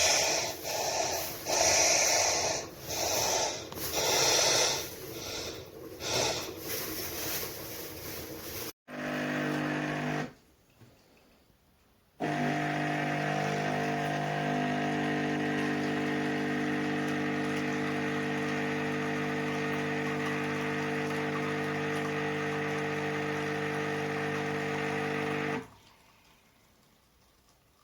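Espresso machine's pump running: a steady electric hum that starts about twelve seconds in and stops abruptly near the end. It is preceded by rhythmic sputtering pulses about once a second, then a brief hum and a pause.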